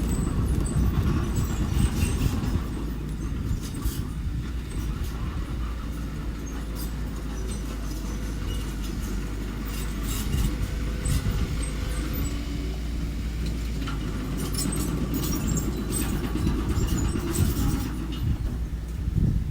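Mini bulldozer's engine running steadily with a low rumble, while its steel tracks and blade give irregular metallic clanks and clicks.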